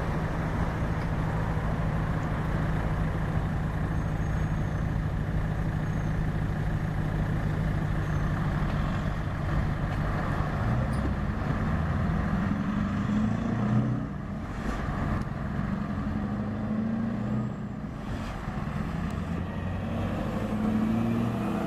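Scania R620's V8 diesel engine running with a steady low drone. A little over halfway through, the level briefly peaks and then dips, and the engine note climbs gradually over the last several seconds.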